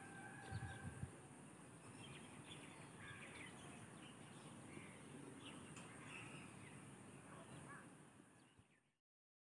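Faint outdoor ambience with scattered distant bird calls, a couple of low thumps about a second in, fading out to silence near the end.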